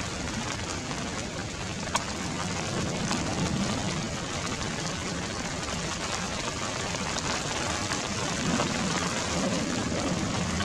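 Heavy monsoon rain falling steadily, with a patchy low rumble underneath and a single sharp tick about two seconds in.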